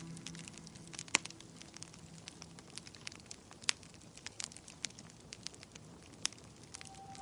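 Wood fire crackling, with irregular sharp pops and snaps; the loudest pop comes about a second in. A soft held music note fades out over the first couple of seconds.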